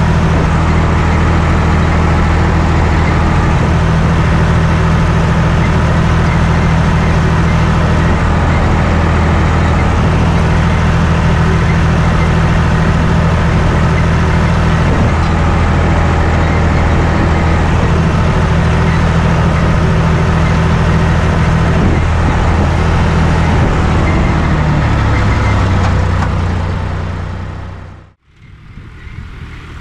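John Deere 1030's three-cylinder diesel engine running steadily. It drops in pitch about 25 seconds in, then fades out near the end.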